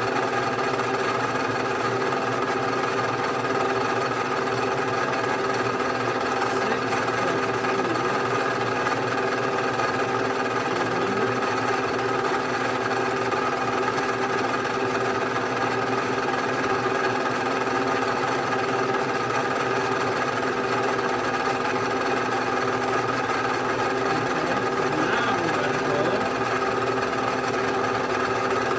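Bridgeport milling machine running steadily, an even machine hum made of several fixed tones that holds at one level throughout.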